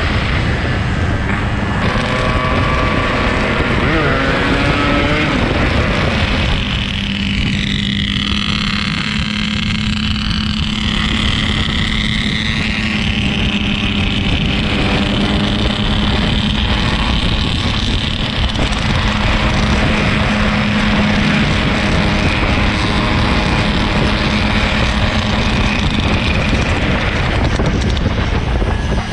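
Yamaha RX-King 135 two-stroke single-cylinder motorcycle engine running while riding, its revs rising and falling several times about a quarter of the way in, then holding fairly steady.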